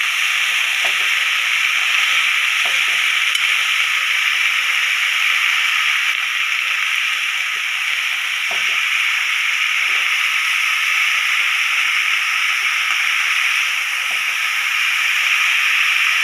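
Pumpkin pieces frying in oil in a pan, a steady sizzle, with a few light knocks of a spatula stirring them against the pan.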